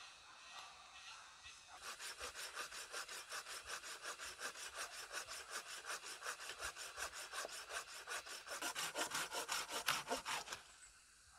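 A saw cutting through wood in quick, even back-and-forth strokes, about five a second. It starts about two seconds in, grows louder toward the end and stops shortly before the end.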